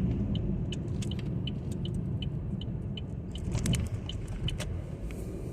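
Car interior road rumble with a turn-signal relay clicking steadily, about three clicks a second; the clicking stops about four and a half seconds in.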